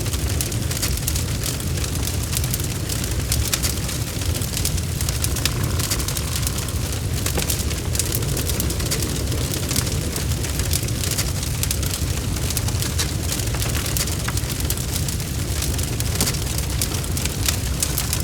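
Log fire burning in a fireplace: a steady low rumble of flames with many sharp crackles and pops from the wood.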